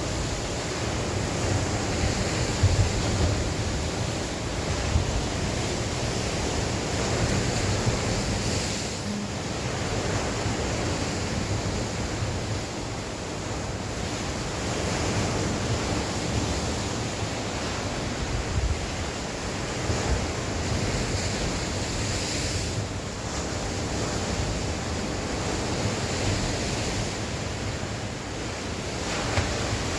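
Sea waves washing on the shore with wind, a continuous rushing noise that swells and eases every few seconds, with low rumble from wind buffeting the microphone.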